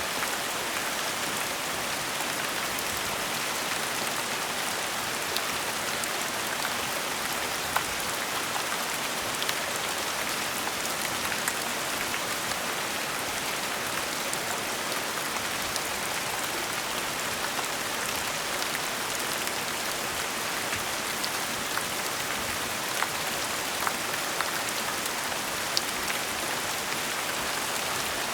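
Steady, gentle rain falling, an even hiss with scattered individual drops ticking on a surface.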